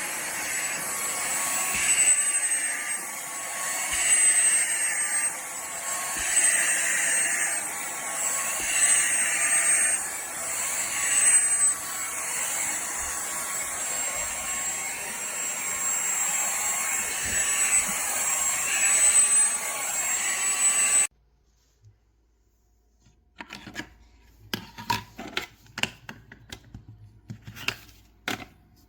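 Shark WandVac handheld vacuum motor running with a thin high whine, its sound swelling and easing about every two seconds. It stops abruptly about three quarters of the way through, and light clicks and rubbing from handling follow.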